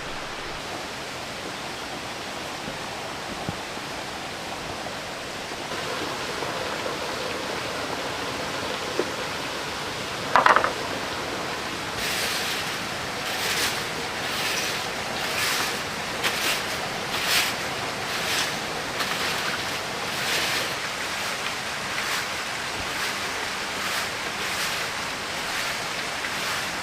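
Steady hiss of heavy rain. About ten seconds in there is one short, louder sound, and from about halfway on a run of sharp snaps or knocks over the rain, roughly one a second and unevenly spaced.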